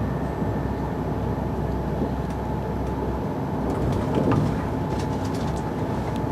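Steady rumble of a moving train heard from inside a passenger car, with a faint steady hum and a few light clicks and rattles.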